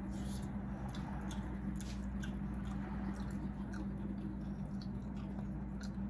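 A person chewing whelk meat: faint wet chewing and soft mouth clicks, with a few scattered light ticks, over a steady low hum.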